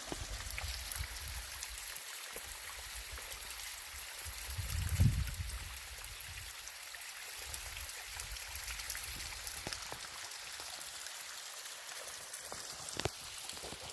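A small creek running steadily over rocks, an even splashing hiss, with a brief low rumble about five seconds in.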